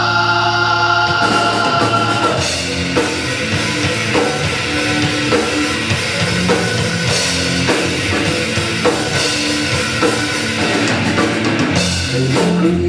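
Live rock band playing an instrumental passage: a held chord for about the first second, then the drum kit and the full band come in with a steady beat.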